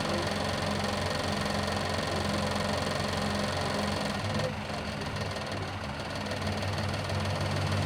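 Car driving at steady speed: a continuous engine hum with road noise, easing slightly about halfway through.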